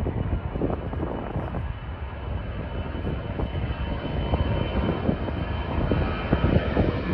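Airbus A321 jet engines at takeoff power as the airliner departs: a loud, dense low roar with crackle, growing a little louder toward the end.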